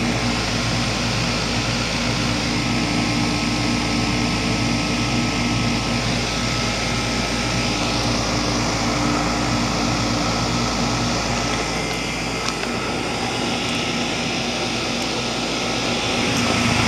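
Outdoor unit of a 2004 Goodman 10 SEER 3.5-ton heat pump running in heating mode, its Copeland reciprocating compressor and outdoor fan giving a steady hum with a few held low tones over an even rush of air.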